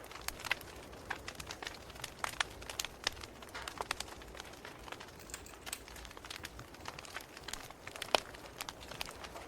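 Wood fire crackling: irregular sharp pops and snaps over a faint steady hiss, with one louder pop about eight seconds in.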